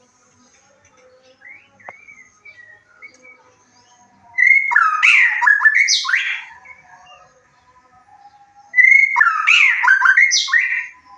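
White-rumped shama singing: two loud, rich song phrases of about two seconds each, full of quick pitch sweeps, the first about four seconds in and the second near the end. Faint, scattered twittering fills the gaps between them.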